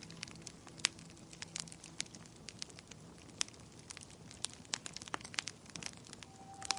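Wood fire crackling in a fireplace: irregular sharp pops and snaps over a soft hiss. Soft music fades away early on, and a new tune begins near the end.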